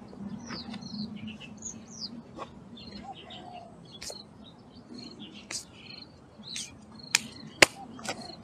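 Small birds chirping and calling, short high notes and quick up-and-down glides, some repeated at even spacing. A few sharp clicks break in near the end, the loudest about seven and a half seconds in.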